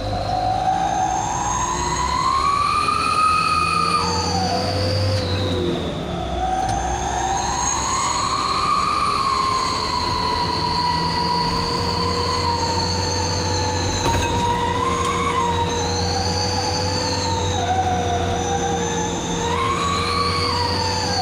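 Truck 'knalpot srigala' (wolf-howl exhaust whistle) howling at highway speed: a higher tone rises and falls with the throttle over a steady lower tone, with the diesel engine rumbling underneath. The howl dips sharply around four and six seconds in, then swells again several times.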